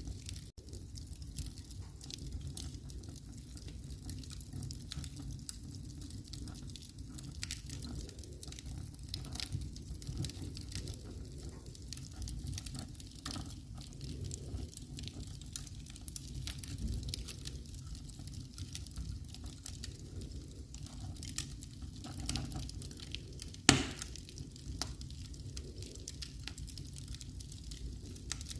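Wood fire in a fireplace crackling steadily over a low rumble, with scattered small pops and one much louder pop about 24 seconds in.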